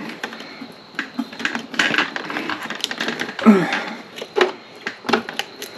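Irregular sharp clicks and light clatter of hand tools and metal parts being handled while working on a motorcycle.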